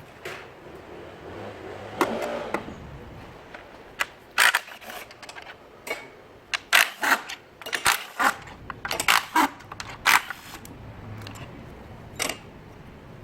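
Irregular metallic clicks and clacks of hand tools and engine parts being handled, clustered in a quick run in the middle, with a single louder knock shortly before.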